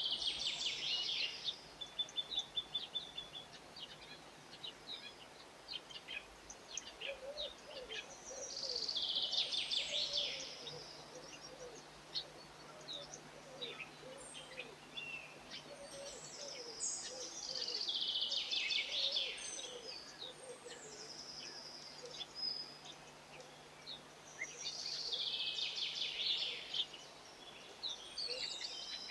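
A songbird singing a short, fast, high-pitched phrase, repeated about every eight seconds, with scattered faint chirps between phrases.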